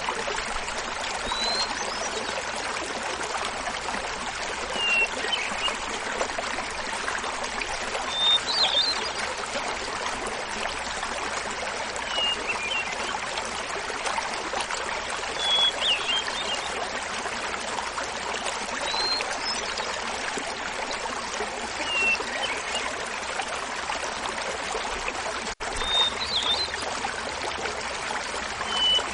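Small mountain waterfall babbling steadily, with a hermit thrush singing short, high, flute-like phrases about every three to four seconds over it. The sound briefly drops out a little before the end.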